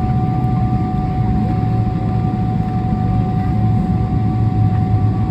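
Cabin noise inside a Boeing 777-300ER on the ground after landing: a steady low rumble from the engines and airflow, with a thin steady whine above it.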